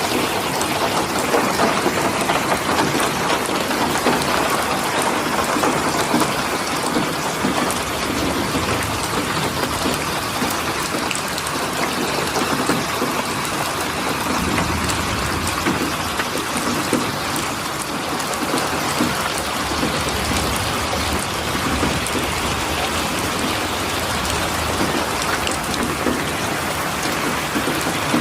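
Steady heavy rain falling, with a dense patter of drops hitting a surface.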